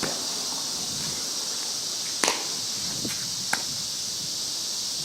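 A sharp crack of a softball bat striking the ball about two seconds in, followed by two fainter knocks, over a steady high hiss of insects.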